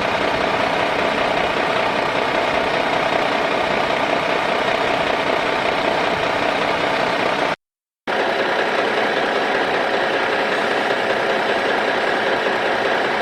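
A motor running steadily, cut off by a sudden half-second gap of silence about seven and a half seconds in, then running on again with a slightly different tone.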